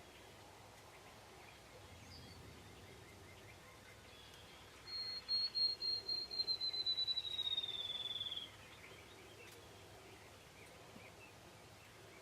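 A small songbird sings one high, trilled song: a run of thin notes that come faster and dip slightly in pitch toward the end, lasting about three and a half seconds. It stands over a faint outdoor background.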